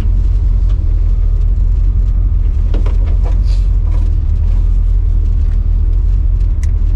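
Chevy 350 small-block V8 with flat-top pistons and a cam, idling steadily to warm up: a deep, even low rumble heard from inside the truck's cab.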